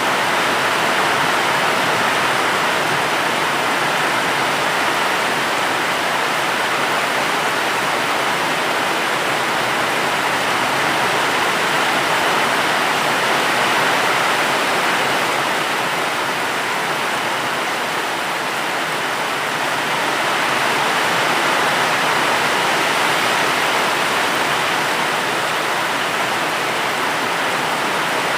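Steady, even rain noise, a continuous hiss without distinct drops or thunder.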